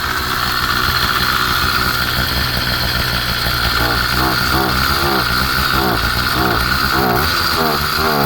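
Small motorized-bicycle engine running on its first start after a year in storage, its pitch wavering up and down rapidly in the second half as the throttle is blipped.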